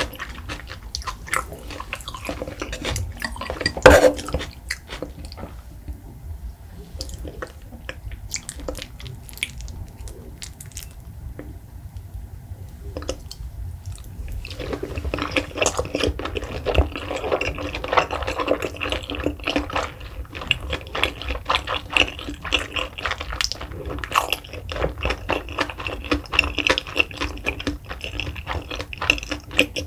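Close-up chewing of raw salmon: soft, repeated mouth sounds with many small clicks, and one sharp click about four seconds in. The chewing thins out for several seconds, then comes thicker and louder after a fresh bite about halfway through.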